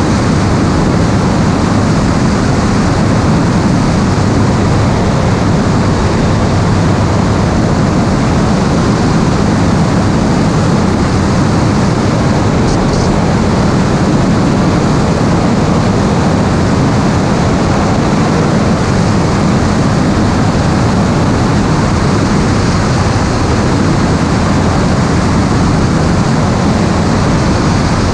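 Steady, loud drone of engine and rushing air heard on board an aircraft in flight, without change in pitch.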